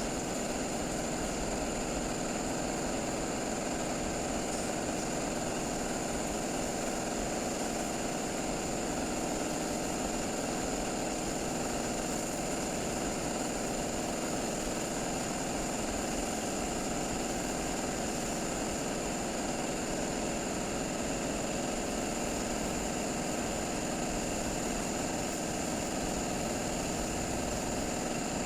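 A machine running steadily without change: an even mechanical hum with a constant high whine.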